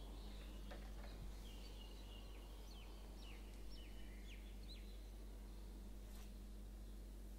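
Faint birds chirping, a quick run of short falling notes in the first half, over a steady low hum and background hiss.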